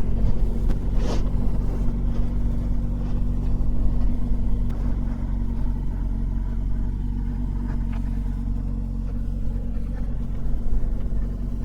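A motorcycle engine running at a steady low speed, with a low rumble of wind on the microphone.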